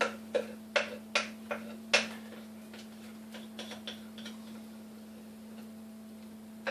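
Spoon knocking and scraping against a glass Pyrex bowl and cookie sheet as hot peanut brittle mixture is spread out: six sharp clicks about every half second in the first two seconds, then a few fainter ticks, then they stop about two-thirds of the way through.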